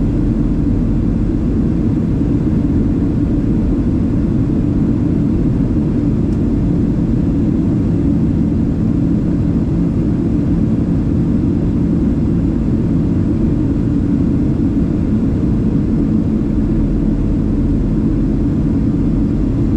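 Steady low drone inside the cabin of a Boeing 737-700 in flight, from its CFM56 jet engines and the airflow, unchanging throughout.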